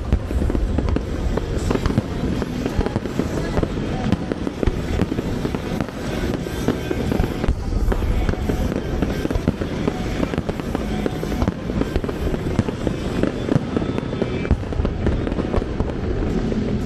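Aerial fireworks going off in a dense, continuous barrage of booms and crackles, with music playing under them.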